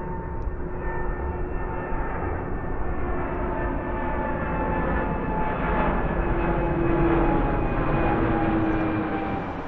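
Jet engines of a Boeing 787-9 at takeoff power: a steady roar with humming tones riding on it, growing louder to a peak about seven seconds in, then easing toward the end.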